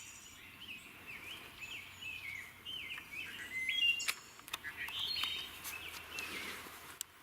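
Wild songbirds singing, short chirping phrases repeating over and over, with a couple of faint clicks.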